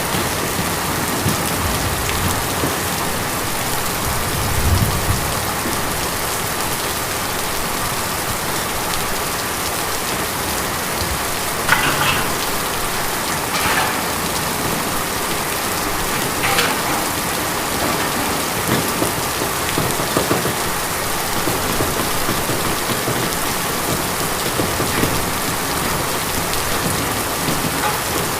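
Steady rain falling on a tin roof: a continuous even patter with a few louder drips striking the metal, and a brief low thump about five seconds in.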